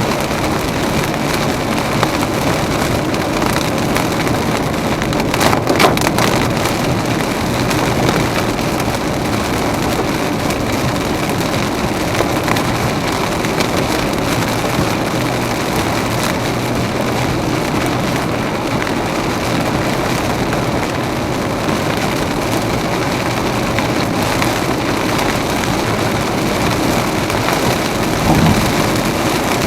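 Heavy rain on a moving car, with tyres hissing on the wet road: a steady, even rush of noise, with a short cluster of sharper taps about six seconds in.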